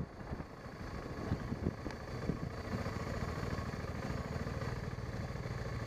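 BMW 650 GS motorcycle engine running at low revs, uneven for the first couple of seconds and then a steady drone.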